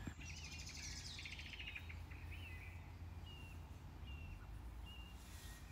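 Faint bird chirps: a quick chattering trill in the first second or so, then single short high calls every second or so, over a low steady hum.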